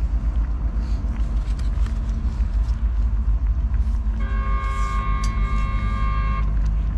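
A horn sounds one steady blast of about two seconds, a little past the middle, then cuts off sharply. Under it runs a constant low rumble.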